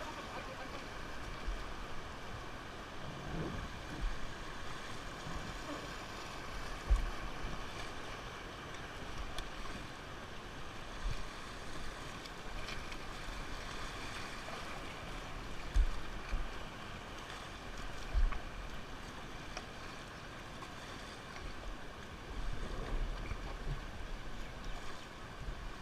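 Steady rush of river water, with a few short low thumps.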